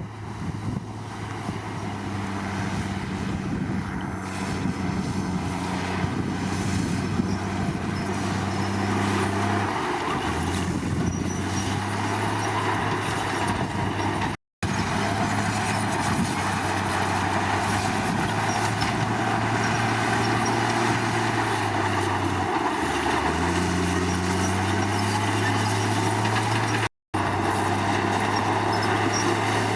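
Diesel engine of a Komatsu D53 crawler bulldozer running steadily and loud, its pitch dipping and recovering twice as it works.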